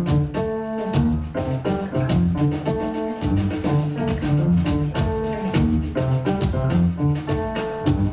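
Jazz combo playing: an upright double bass walking beneath piano chords and melody, with a drum kit keeping time on cymbals.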